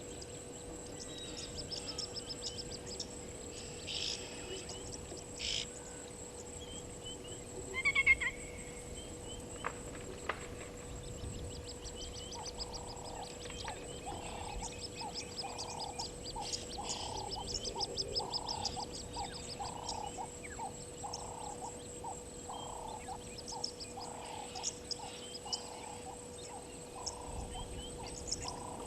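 Natural waterhole ambience: birds chirping and trilling, with a louder call about eight seconds in. From about twelve seconds in, a frog calls in a steady series of short croaks, roughly two a second.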